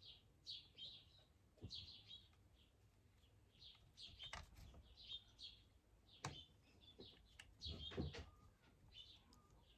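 Faint birdsong: small birds chirping over and over in short, high notes. A few soft knocks and handling noises come through, the loudest about eight seconds in.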